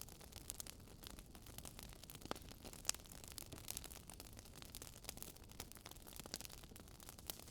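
Faint crackling of a wood fire: irregular small pops and snaps over a soft steady hiss.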